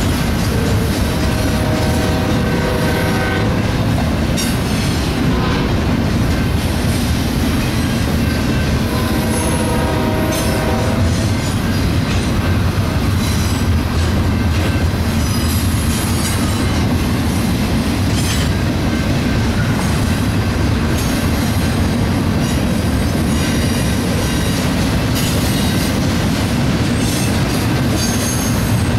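Double-stack intermodal train's loaded well cars rolling past, a steady rumble and rattle of steel wheels on the rails. Brief pitched whines cut through twice, about a second in and again about nine seconds in.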